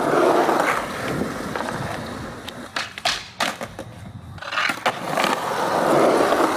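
Skateboard wheels rolling, then a quick run of sharp board clacks and impacts around the middle, and rolling again that grows louder near the end.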